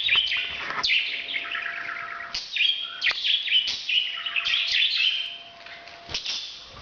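Pet parrot chattering in a rapid run of varied chirps and whistles, broken by a few sharp squawks; the uploader presents it as the bird's breeding call.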